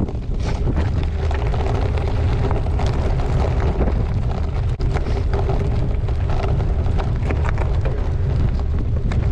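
Wind buffeting a GoPro's microphone on a moving gravel bike: a steady, loud low rumble, with scattered short clicks and rattles of the bike over the ground.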